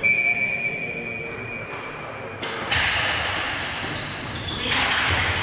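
Game sounds in a large hall. A steady high tone comes in suddenly and holds for about two and a half seconds, then gives way to a broad noisy hiss of play and crowd noise.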